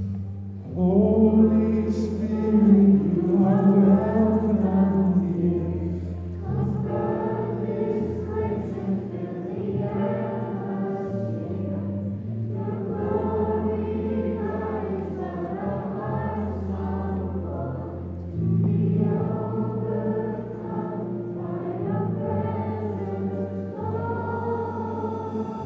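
Congregation and a small worship group singing a slow worship song together, over steady low sustained accompaniment notes.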